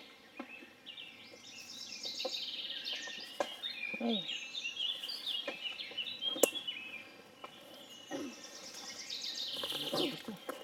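A songbird warbling: a busy run of quick, high chirps, with a single sharp click about six and a half seconds in.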